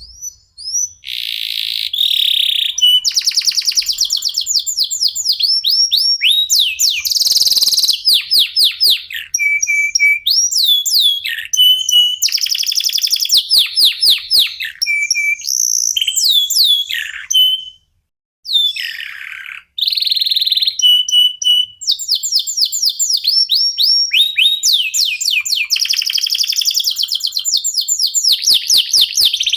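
Local Indonesian canaries in full song, several birds joining in: long runs of fast trills and rolling, rapidly repeated notes in quick, varied phrases, with a short pause about eighteen seconds in.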